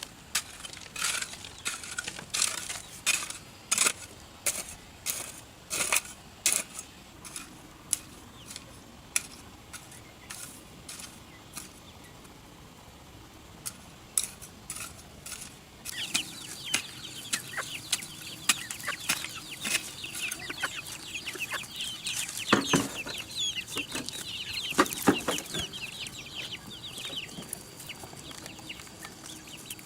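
Chickens clucking, with many short, high chirping calls from about a third of the way in. Before that, a run of sharp clicks or strokes about twice a second, and a few louder knocks near the middle of the chirping.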